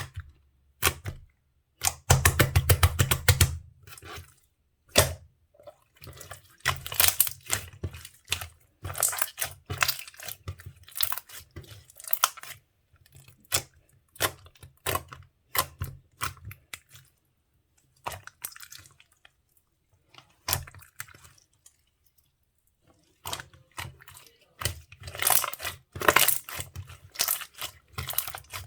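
Slime being squeezed, poked and stretched by hand, making wet clicking and crackling pops in bursts with short pauses.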